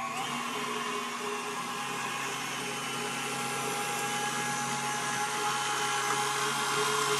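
KitchenAid stand mixer motor running with its wire whisk beating egg yolks and mustard: a steady electric whine that steps up in pitch as the mixer speeds up right at the start, then holds and grows slowly louder.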